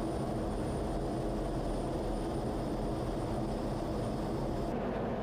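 Steady jet aircraft engine noise, even and unbroken, strongest in the low range.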